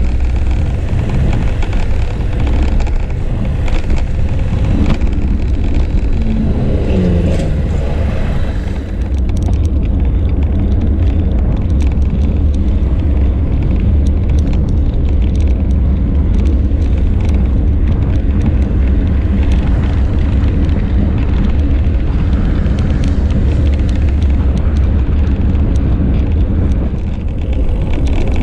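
Wind rumbling steadily on a bike-mounted action camera's microphone while riding among road traffic. About seven seconds in, a passing vehicle's tone falls in pitch.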